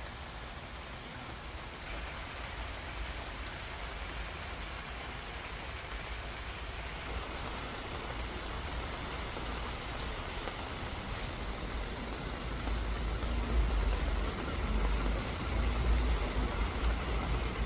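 Steady rain falling, an even hiss of drops on surfaces, with a low rumble underneath; it grows a little louder in the last few seconds.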